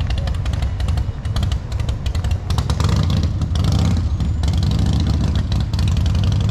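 Car engine idling steadily, with scattered clicks and clatter over it; the engine grows louder near the end.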